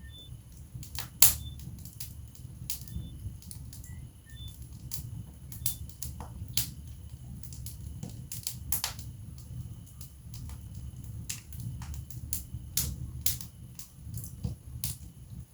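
Wood fire burning in a fireplace: logs crackling and popping in irregular sharp snaps over a low steady rumble, with one loud pop about a second in.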